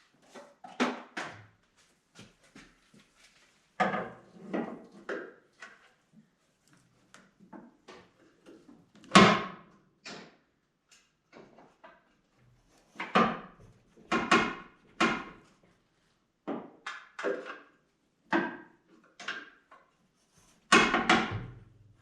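Irregular metal clanks and knocks as a Camaro's engine and transmission, hung from a hoist, are worked loose from a motor mount where they are hanging up. There are about a dozen uneven bangs, the loudest about halfway through and another near the end.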